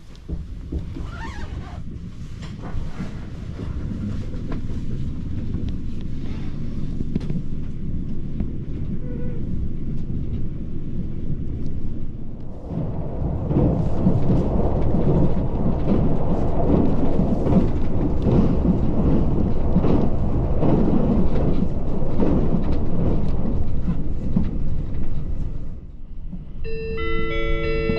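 Cabin noise of a JR Hokkaido 789 series 1000 electric limited express running at speed: a steady low rumble of wheels on rails that grows louder about halfway through. Near the end, the on-board chime begins to sound.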